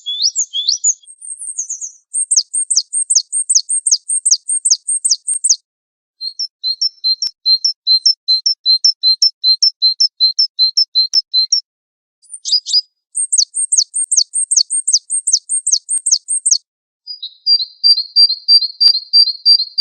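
Bird-song tutor recording of small songbirds: a string of separate song phrases, each a fast run of high, repeated notes, with short silences between them. First come quick downward-sweeping chirps, then a steady trill of paired notes about six seconds in, then sweeping chirps again, and near the end a rapid run of repeated notes.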